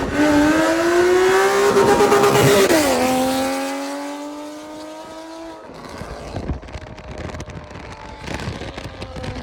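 Porsche with an aftermarket exhaust accelerating hard: the engine note climbs for about three seconds, drops sharply at an upshift, then climbs again as it fades away. The exhaust is very loud.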